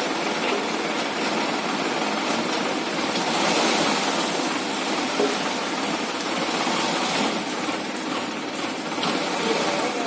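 Sonalika DI 47 RX tractor's three-cylinder diesel engine running steadily, heard as an even, hissy noise without clear pitch.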